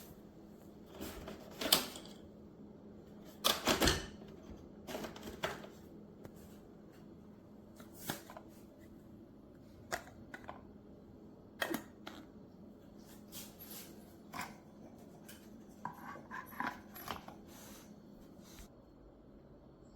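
Scattered sharp clicks, taps and knocks of objects being handled, irregularly spaced, loudest about two seconds in and again around four seconds in.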